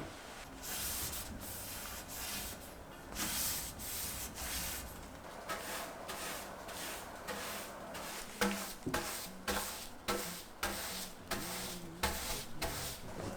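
Repeated rubbing strokes, about two a second. About eight seconds in they become sharper, each one starting with a click.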